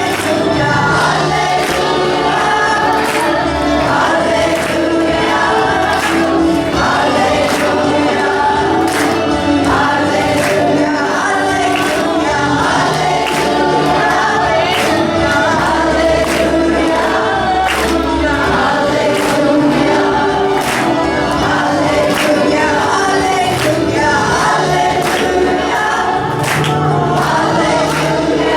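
A choir singing a song over accompaniment with a steady beat.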